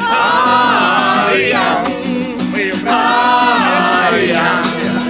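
Singing of a Russian song with musical accompaniment, with two long held notes that waver in pitch.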